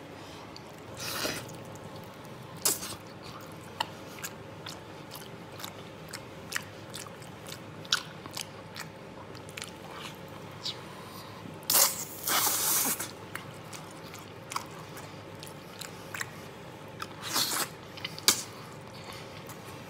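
A person chewing soft, glutinous stewed beef: wet mouth clicks and smacks throughout, with a few louder bites about a second in, around the middle and near the end.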